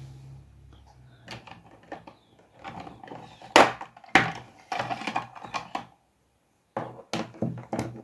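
A series of irregular knocks and clatters, about a dozen, the loudest about three and a half seconds in, with a short pause near the end; a steady low hum fades out in the first second.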